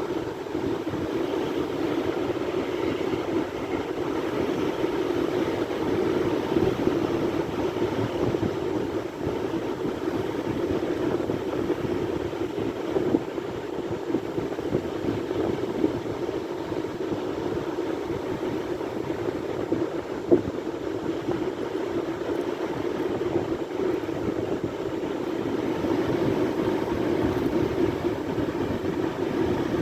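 Sea surf: a continuous roar of waves that swells gently now and then, with a couple of brief sharper splashes or knocks.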